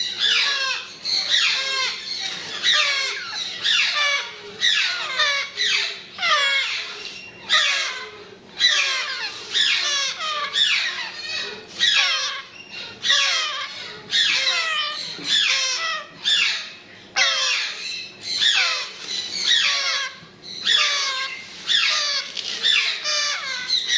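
Grey parrot chicks calling over and over, a rasping call with falling sweeps in pitch a little more than once a second.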